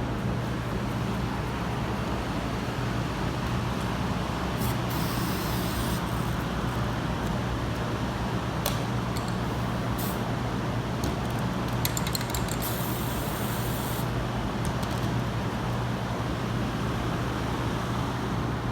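Two short bursts of aerosol spray paint from a rattle can, about five seconds in and about thirteen seconds in, with a few clicks between them. A steady low hum runs underneath.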